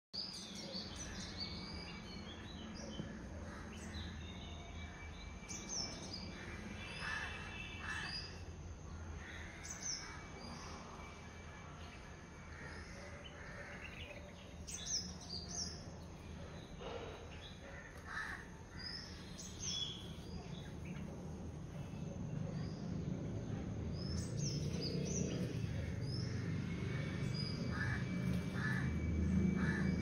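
Bulbuls chirping: many short whistled notes and chirps scattered through, over a steady low background rumble that grows louder in the last third.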